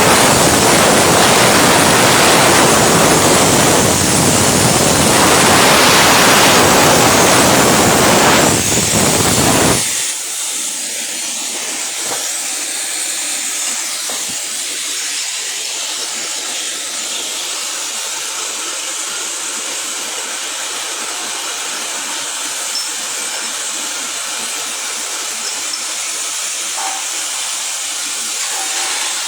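Arc welding: the electrode arc giving a steady hiss, loud and full for about the first ten seconds, then dropping suddenly to a quieter, thinner hiss.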